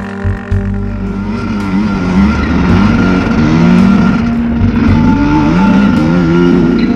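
Honda CR125 two-stroke dirt bike engine revving up and down repeatedly, over steady background music.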